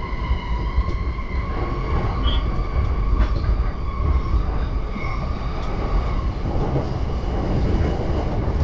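JR Yamanote Line electric train running, heard from inside the car: a steady low rumble of wheels on track, with a high steady whine that fades away about six seconds in.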